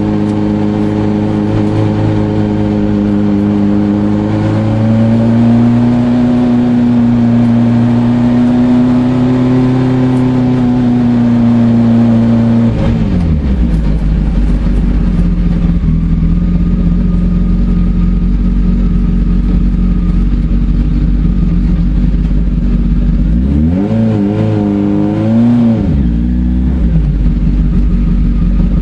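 Fiat 500 Maxi slalom car's engine heard from inside the cockpit, held at high revs and rising a little, then falling sharply just before the middle as the driver lifts. Near the end the revs climb and drop back in a short blip before it runs on at lower revs.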